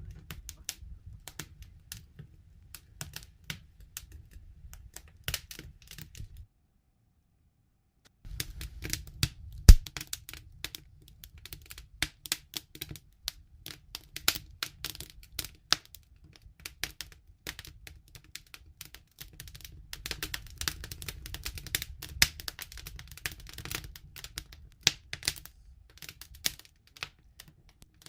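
Wood fire crackling and popping with dense irregular sharp snaps over a low rumble, one especially loud pop about ten seconds in. The sound cuts out completely for about two seconds between roughly 6.5 and 8 seconds in.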